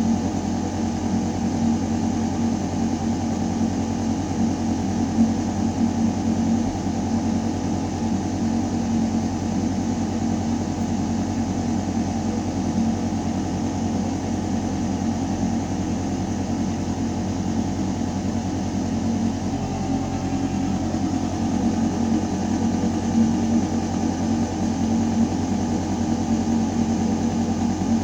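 A building's ventilation system in a shaft: a steady, deep mechanical hum of air moving through metal ducting. The hum shifts slightly about two-thirds of the way through.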